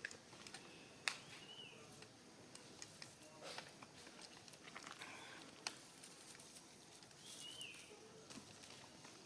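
Faint scattered clicks and rustles, with two short, high animal calls, each rising then falling in pitch.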